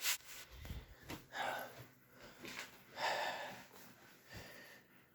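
A person breathing out audibly, with two longer breaths about a second and a half apart among fainter ones.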